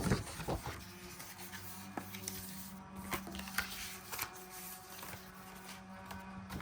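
Cut cardstock being handled and folded by hand: scattered light taps and rustles of paper, over soft background music.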